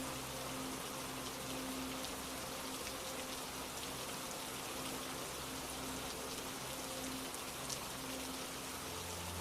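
Steady rain falling, an even hiss flecked with small drop ticks, over a soft sustained musical drone whose low notes change near the end.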